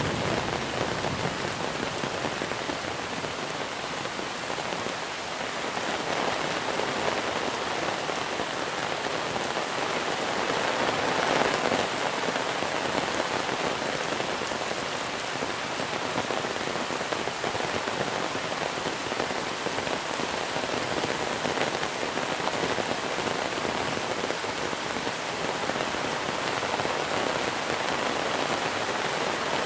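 Monsoon rain falling steadily on surfaces: an even hiss of drops, swelling slightly about eleven seconds in.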